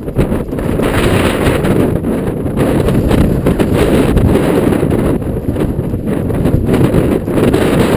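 Strong wind buffeting the camera microphone while a mountain bike is ridden at speed, with rapid knocks and rattles from the bike over rough trail. The wind rises sharply right at the start.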